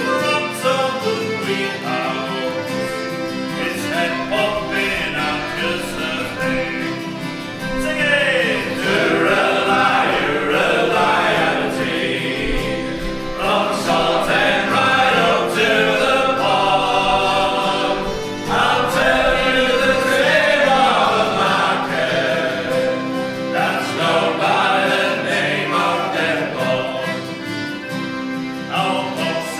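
Folk group singing a sea shanty together with instrumental accompaniment; the voices come in strongly about eight seconds in.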